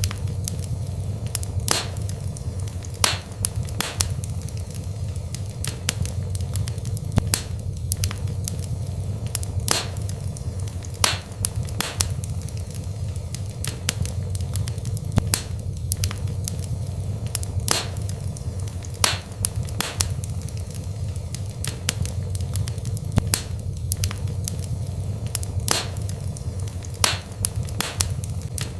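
Wood fire burning in a fireplace: a steady low rumble of flames with sharp crackles and pops at irregular intervals, roughly one a second.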